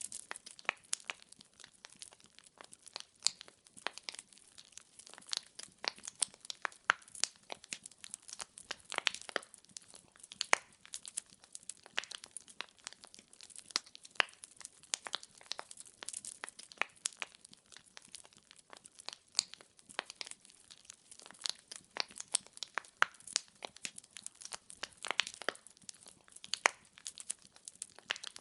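Burning firewood crackling and popping in a fireplace: a dense, irregular run of sharp snaps over a soft hiss, with no flame roar.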